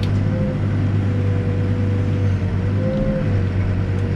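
Backhoe's diesel engine running steadily under working load, with a thin whine that rises and falls slightly in pitch over the deep engine drone.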